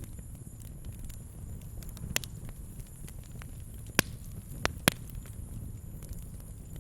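Wood campfire crackling: scattered sharp pops and snaps, the loudest about four and five seconds in, over a steady low rumble.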